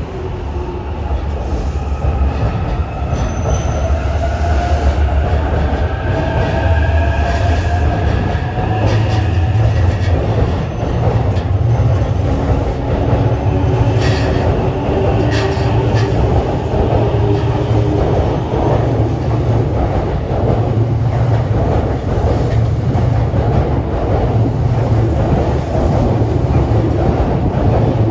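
Electric commuter train pulling out of the platform. Its motor whine rises in pitch as it accelerates over the first ten seconds or so, then gives way to a steady loud rumble and wheel noise as the cars run past, with a few sharp clicks from the wheels on the rails.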